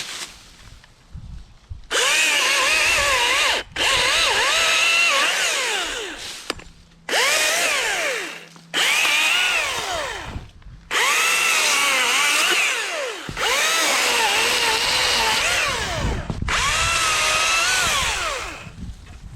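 Echo 2500T battery chainsaw cutting birch in a series of short runs with brief pauses between them. Its electric whine sags in pitch and recovers again and again as the chain bites into the wood.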